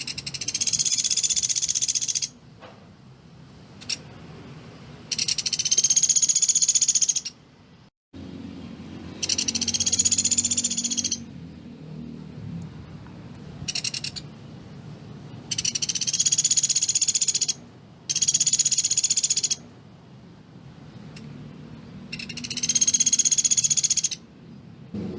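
Pelatuk beras bird calling in a series of high-pitched, rapid trills of about two seconds each, with short pauses between them: the dense 'tembakan' bursts prized for training other songbirds.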